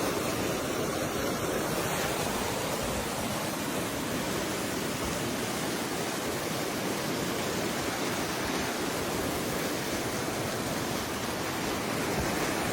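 Steady rushing of fast-flowing floodwater, an even roar of water with no breaks.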